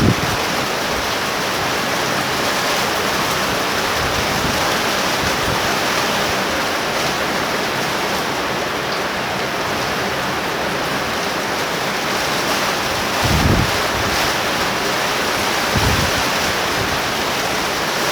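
Torrential rain pouring steadily in a thunderstorm, with gusty wind buffeting the microphone twice near the end.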